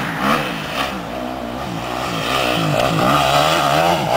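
Motocross bike engine revving up and down over and over, its pitch rising and falling every fraction of a second.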